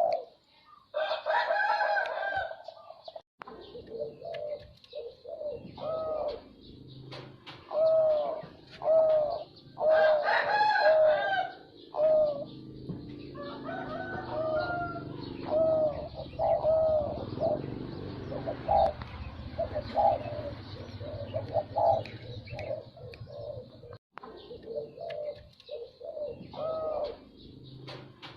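Zebra dove cooing: a long series of short coo notes, repeated every half second or so, broken by two louder, fuller phrases. A low rumble runs under the middle part.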